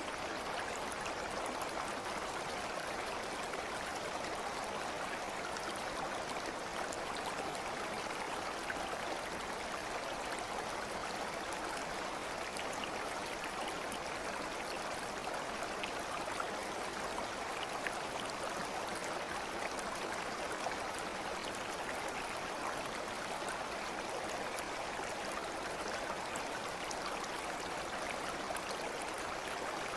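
Steady rushing water of a flowing stream, an even wash of sound with no pauses, dotted with a few faint small ticks and splashes.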